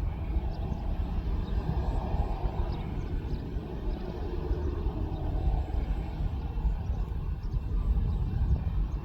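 Jet airliner engines rumbling steadily in the distance.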